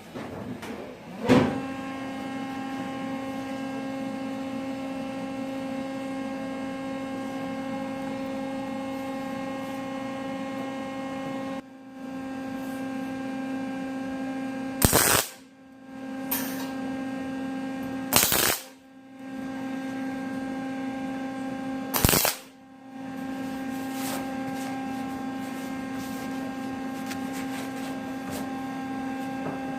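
Steady electrical hum with a pitched buzz, broken by a handful of sharp clicks where it briefly drops out.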